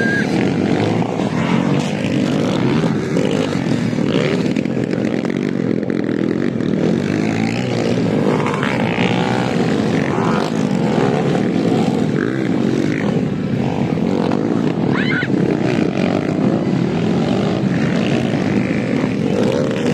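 Several motocross bike engines running together, a steady loud drone whose pitch keeps rising and falling as the riders rev and shift.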